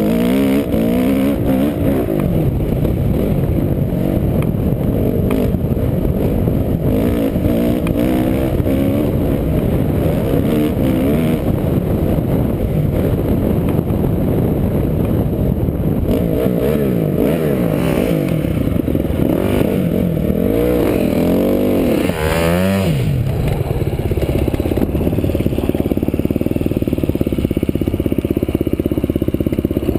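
Off-road vehicle engine running under way, its pitch rising and falling with the throttle. There is a quick rev up and back down about three-quarters of the way through, then steadier running.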